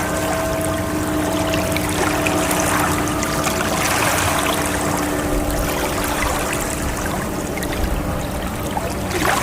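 Ocean water washing and lapping, swelling about four seconds in. A faint steady tone lingers underneath for the first couple of seconds.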